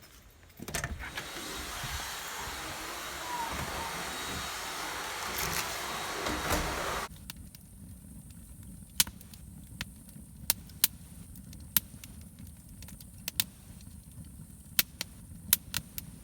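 A steady rushing hiss for about six seconds that cuts off abruptly, then a wood fire crackling with scattered sharp pops.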